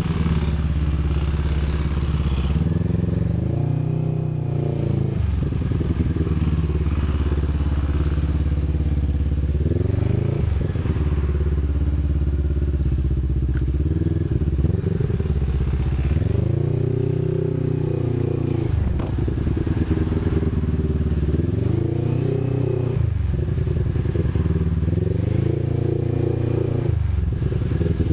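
CFMOTO 400NK motorcycle's parallel-twin engine running while riding, its engine speed climbing and dropping several times.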